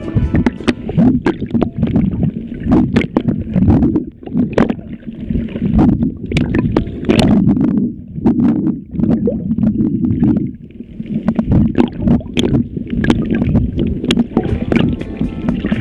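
Rough seawater churning and bubbling against an underwater camera housing, with many sharp crackles, the rush swelling and easing every few seconds with the surge of the swell.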